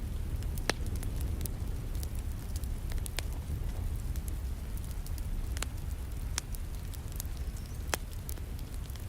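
Wood fire in a fireplace crackling, with irregular sharp pops (the loudest about a second in and near the end) over a steady low rumble, mixed with the soft hiss of falling rain.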